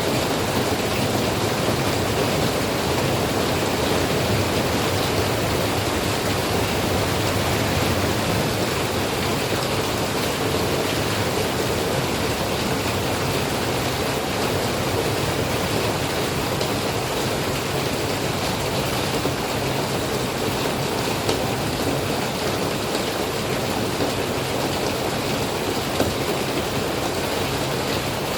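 Steady rain falling, a dense even hiss that keeps up without a break.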